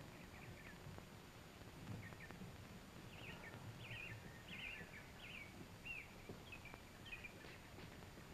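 Faint bird chirping: a string of short chirps, about two a second, starting about two seconds in and stopping shortly before the end, over a low background hiss and rumble.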